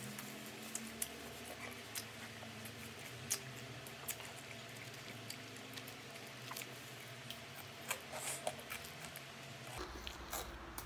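A person eating: faint, scattered chewing and small mouth clicks over a steady low hum.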